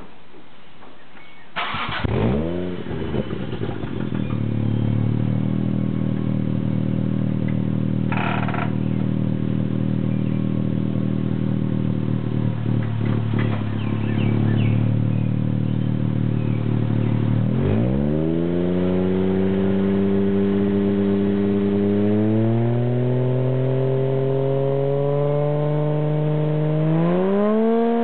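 Toyota Supra's 1JZ-GTE twin-turbo straight-six through a 3-inch Apexi catback exhaust with a hollowed-out catalytic converter. It fires up about two seconds in, flares and settles into a steady idle. About two-thirds of the way through it is revved and held at a higher speed, stepped up again, and climbs steeply near the end.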